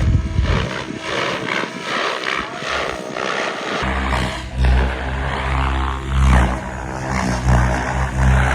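Radio-controlled model aircraft flying, its motor and propeller running steadily with a pulsing drone; the sound changes abruptly about four seconds in, when it turns heavier and deeper.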